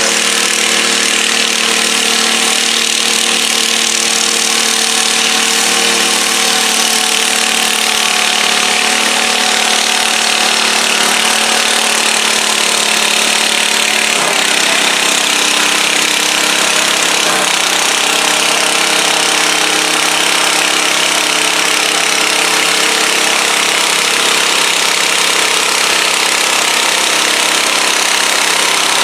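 Modified pulling garden tractor engine running hard at steady high revs, its pitch shifting a little about halfway through.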